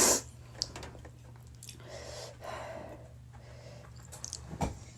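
Quiet breathing and mouth sounds of a person eating spicy noodles, with a short louder sound at the very start and another about four and a half seconds in. A steady low hum runs underneath.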